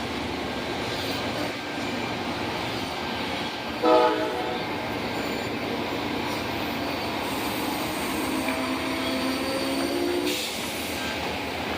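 A train going by, with steady rail and wheel noise throughout. A short horn toot about four seconds in is the loudest moment, and a faint, slowly rising tone is heard from about eight to ten seconds in.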